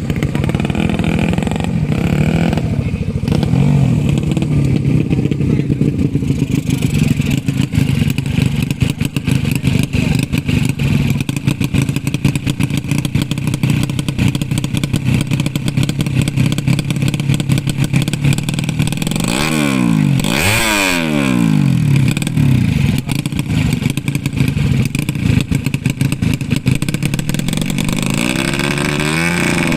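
Motorcycle engines running steadily. About two-thirds of the way in, one bike's pitch swoops down and back up as it passes or revs.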